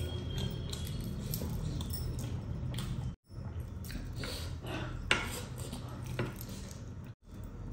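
Close-miked eating: fried fish pulled apart by hand and chewed with wet, smacking mouth sounds and a few short crunchy clicks, two sharper ones in the second half. A steady low hum runs underneath.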